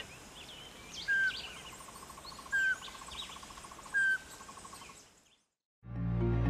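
Birds calling: three short call notes, each sliding down, about a second and a half apart, with a fast, faint trill and scattered higher chirps between them. The sound fades out about five seconds in, and background music starts near the end.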